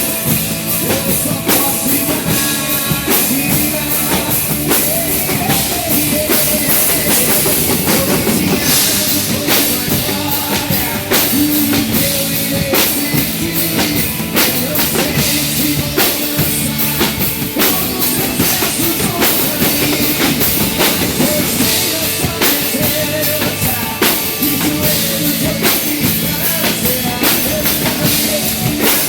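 Live band playing an instrumental passage of a worship ballad, the drum kit prominent with steady bass drum, snare and cymbal strikes over held bass and keyboard or guitar notes.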